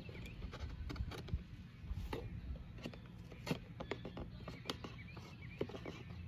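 Utility knife blade cutting through a cardboard milk carton: irregular crackling clicks and snaps as the blade works through the coated paperboard.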